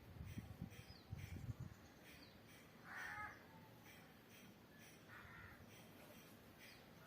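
A crow cawing twice in the background, about three seconds in and again about five seconds in. Faint low crackling is heard in the first second and a half.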